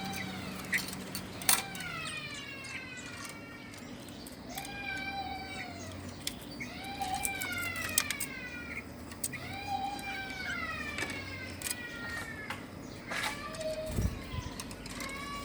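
Birds calling: a run of drawn-out calls, each rising then falling in pitch, about one a second, with sharp clicks between them.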